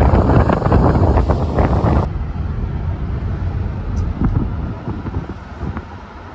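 Wind buffeting the microphone, heavy for about two seconds, then cutting down abruptly to a lighter rumble.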